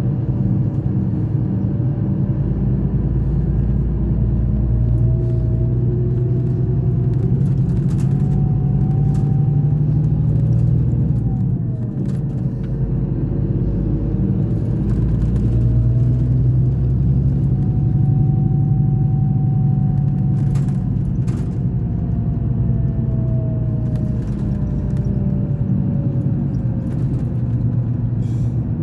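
Scania K420 coach engine running under way, a steady low drone whose pitch climbs, dips briefly about twelve seconds in, climbs again and then slowly falls. A few sharp clicks or rattles are heard over it.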